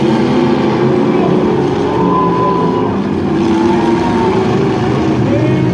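Several demolition derby trucks' engines running and revving together during a heat.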